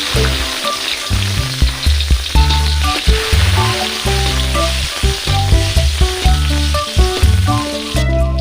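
Food frying in hot oil in a pan, a steady sizzle that stops near the end, with background music playing over it.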